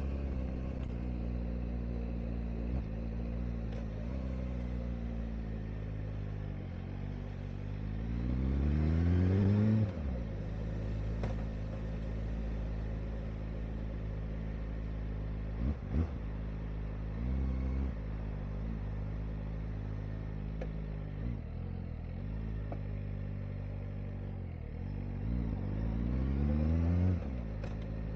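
Kawasaki Ninja ZX-4RR's 399 cc inline-four running on the move, mostly at a steady note. It makes two rising pulls, about a third of the way in and near the end, each cutting off sharply, with a couple of brief blips in between. Revs stay low because the new engine is being run in.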